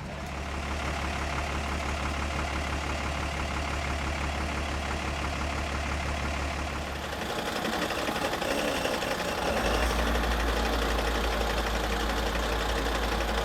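Fire engine's diesel engine running steadily, its sound changing about seven seconds in and settling to a slightly lower hum a couple of seconds later.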